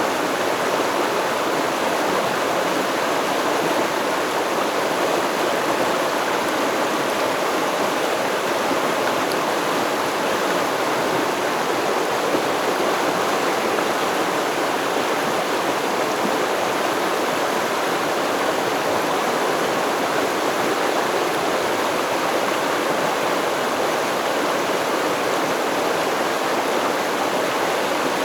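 Stream water flowing steadily over rocks, an even rushing babble.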